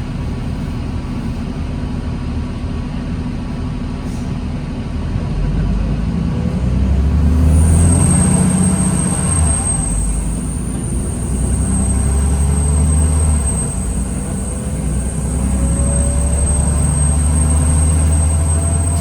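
New Flyer D40LFR diesel bus accelerating in stop-and-go traffic: the engine's low rumble swells in three surges of acceleration, with a faint whine slowly rising in pitch. About a third of the way in a steady high-pitched whine starts and holds through the rest.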